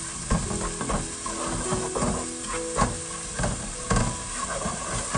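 Onion-and-spice masala sizzling in oil in a nonstick pot while a wooden spoon stirs and scrapes through it, knocking against the pot roughly once a second. The masala is being fried down (bhuna).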